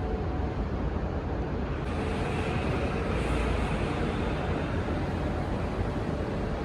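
Steady road-traffic rumble and tyre noise, growing slightly brighter about two seconds in.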